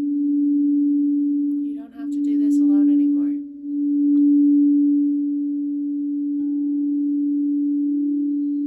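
A singing bowl sounding one steady low hum, with its loudness dipping and swelling twice in the first few seconds. A brief cluster of higher tones rings out about two to three seconds in.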